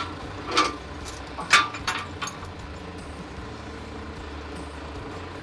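Heavy machinery engine running at a low, steady idle, with a few sharp metal clanks in the first two seconds, the loudest about a second and a half in.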